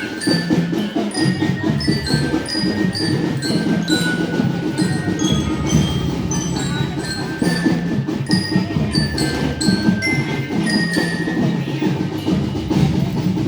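A marching drum band playing: a bell lyre (marching glockenspiel) rings out a melody of short notes over a steady beat of snare, tenor and bass drums.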